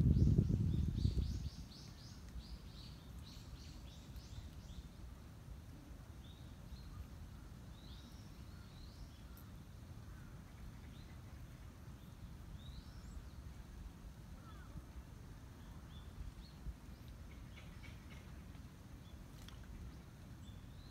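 Small birds chirping: a quick run of short, high repeated chirps in the first few seconds, then scattered single calls, over a low steady outdoor hum. A loud low rumble fills the first second and a half.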